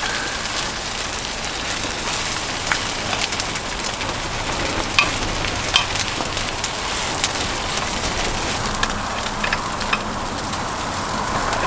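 Pancake batter pan-frying in hot oil: a steady sizzle with scattered pops and crackles.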